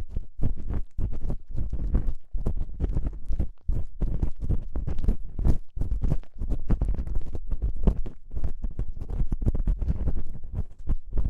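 Close-up ear-cleaning ASMR: an ear-cleaning tool scraping and rubbing in an ear, a rapid, irregular stream of scratchy crackles with a heavy low rumble.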